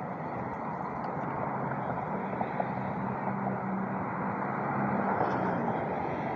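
A motor vehicle's engine running steadily against outdoor background noise, with a low hum that is strongest through the middle of the stretch.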